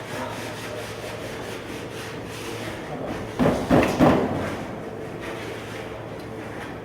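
Workshop work on wood: steady rubbing and handling noise, broken by three loud knocks close together about three and a half seconds in.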